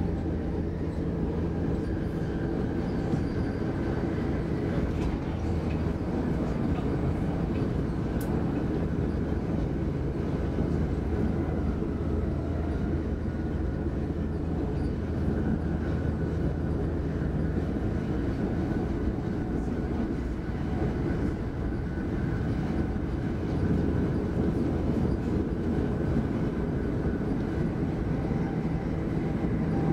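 Inside the passenger cabin of an X60 (Alstom Coradia Nordic) electric commuter train running at speed: a steady rumble of the wheels on the track. A low hum under it fades about ten seconds in and comes back near the end.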